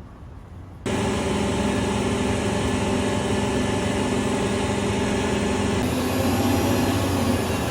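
Heavy truck engine running steadily, cutting in abruptly about a second in.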